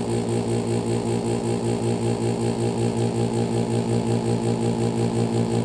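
Pelonis Elite heat pump running: a steady, loud mechanical hum with a fast, even pulsing, during a cycle that the owner takes for a malfunction.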